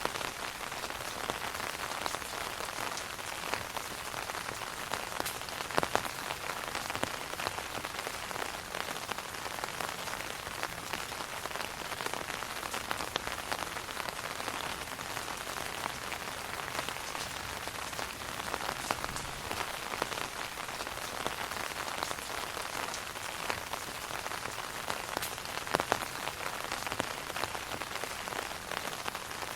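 Steady rain pattering on an umbrella overhead: a dense hiss of fine drop ticks, with a few louder single drops standing out about six seconds in and near the end.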